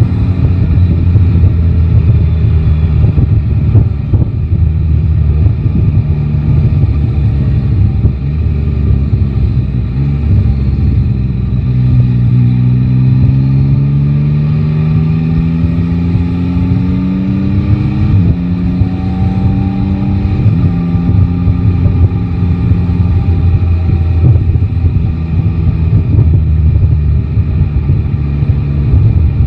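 Yamaha Tracer 9 GT's inline three-cylinder engine running at low revs in slow traffic. About a third of the way in it pulls up steadily in pitch as the bike accelerates, drops sharply at an upshift just past halfway, climbs briefly again, drops at a second shift, and then settles back to low, steady running.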